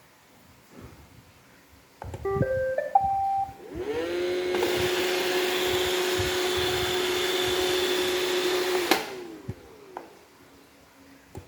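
iRobot Roomba robot vacuum playing its short start-up tune of rising beeps about two seconds in. Its vacuum motor and brushes then spin up with a rising whine and run steadily for about five seconds before cutting off and winding down.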